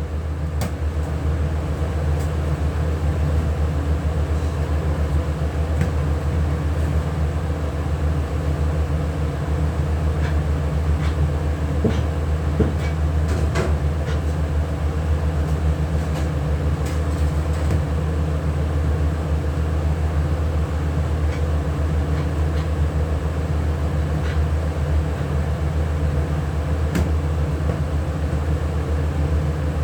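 A motor-driven machine running with a steady low hum, with a few faint clicks and knocks.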